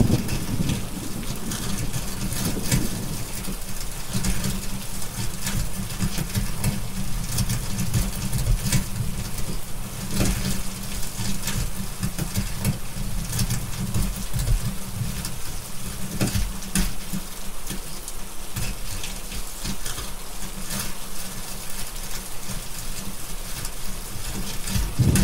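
Steady rain with a low rumble beneath it, and a wood fire crackling in short, irregular pops.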